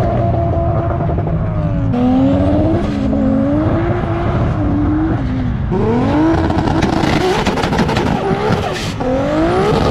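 Car engine at high revs under hard acceleration. Its pitch drops sharply and then climbs again about two, six and nine seconds in, as it shifts up through the gears.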